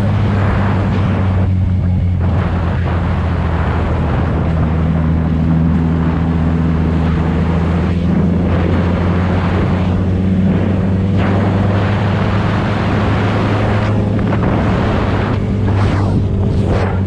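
Motorcycle engine running at a steady cruising speed with heavy wind rush on the microphone, the engine note holding one pitch throughout.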